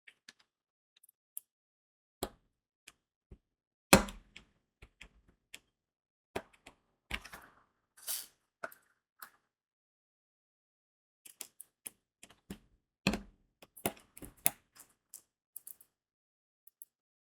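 Crystal diamond-painting beads clicking as they are pressed onto the sticky canvas with a drill pen: irregular sharp clicks and taps, with a louder knock about four seconds in, a short rustle near eight seconds, and a quick run of clicks from about thirteen to fifteen seconds.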